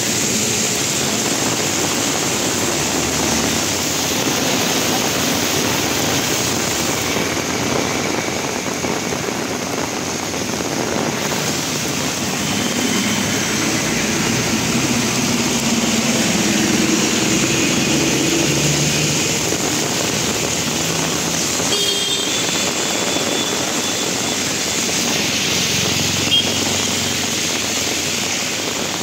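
Heavy rain pouring in a steady hiss, with vehicles driving through it on a wet road, their engines rising briefly in the middle. A short sharp sound comes near the end.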